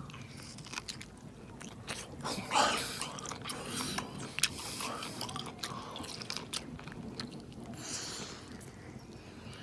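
Close-up eating sounds of a man biting into and chewing grilled food, with many small wet mouth clicks. There are louder breathy noises about two and a half seconds in and again near the end.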